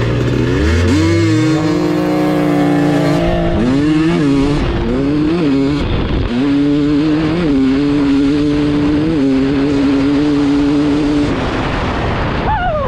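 2022 KTM 300 XC-W two-stroke dirt bike engine with an FMF Turbinecore 2 silencer at full throttle from a launch: revs climb quickly, then hold high with a brief dip at each of several gearshifts, and drop away near the end as the throttle is closed.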